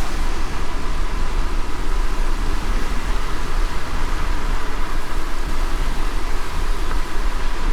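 Moving car: steady low rumble of tyres and engine with an even hiss of road and wind noise above it.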